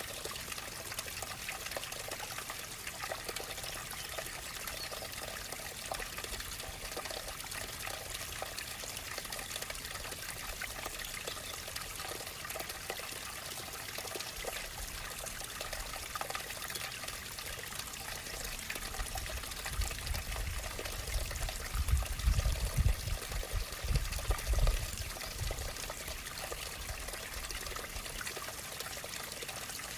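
Running water trickling and pouring steadily. About two-thirds of the way through, a low rumble comes and goes in uneven pulses for several seconds, louder than the water.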